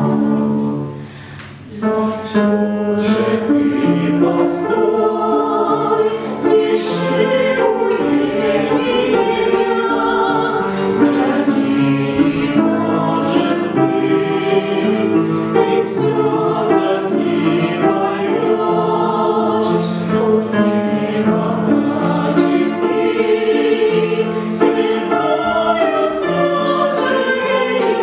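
A choir singing a song with several voices in harmony, with a short break about a second in before the singing resumes.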